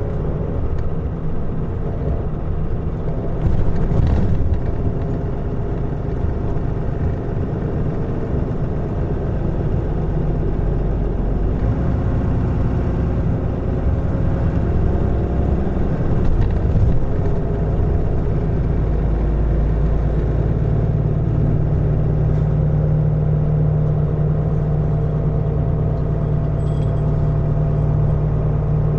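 Mitsubishi Fuso Aerostar city bus (QKG-MP35FP) running, with a steady diesel engine hum and road noise. There is a brief louder noise about four seconds in, and the engine hum grows stronger and steadier in its last third.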